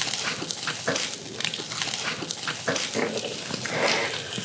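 Close-up eating sounds: irregular wet chewing and lip-smacking on charcoal-grilled heart skewers, over a steady faint sizzle from the grill.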